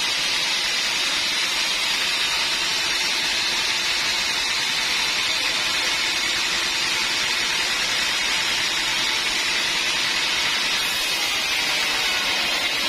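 Sawmill saw running, a steady high hiss that holds level throughout.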